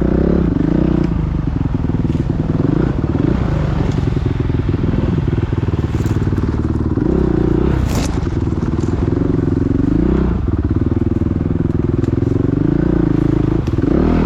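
Motocross bike engines revving, their pitch rising and falling again and again as the throttle is opened and closed. Two sharp clicks cut in about six and eight seconds in.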